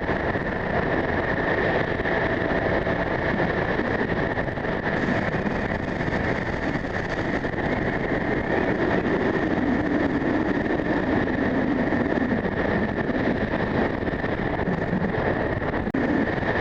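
Strong wind buffeting the microphone, a steady loud rush with small swells and a constant high tone running through it.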